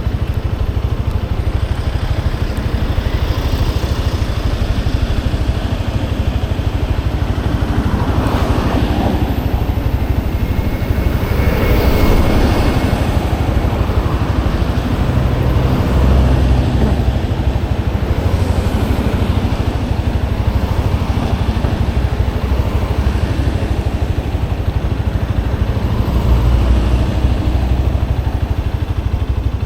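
Motorcycle on the move: a steady engine and road rumble, with two swells of louder noise about a third of the way in, like other traffic going past.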